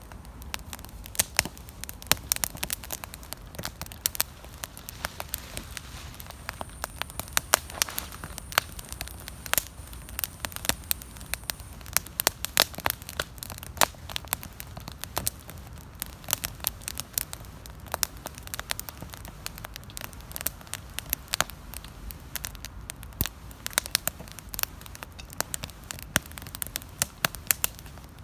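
Wood campfire burning, with dense, irregular sharp crackles and pops over a steady low rush of flames.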